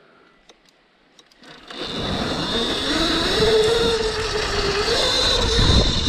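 Kuberg electric minicross bike riding off: about a second and a half in, the electric motor's whine comes in over wind and tyre noise, and its pitch rises as the bike speeds up, then holds. A few faint clicks come before it.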